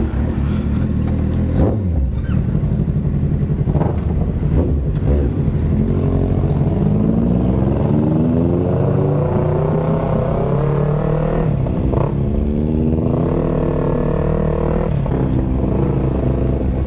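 Yamaha R25 parallel-twin engine, fitted with an aftermarket exhaust, pulling away and accelerating. Its pitch climbs steadily, drops at a gear change about twelve seconds in, climbs again, then settles.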